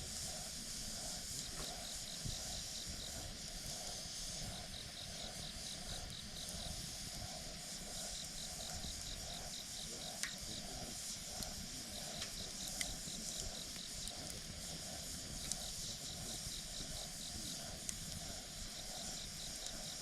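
Campfire burning with a steady hiss and a few sharp crackles and pops. Insects chirp throughout in short trains of rapid pulses, repeating every two to three seconds.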